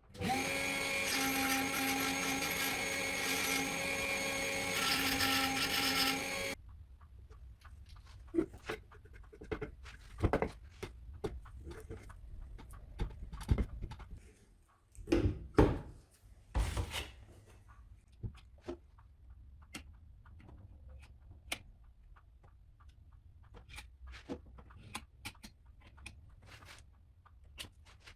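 A power tool runs at a steady pitch for about six and a half seconds and cuts off abruptly. Scattered clicks and knocks follow, with a few louder knocks around the middle.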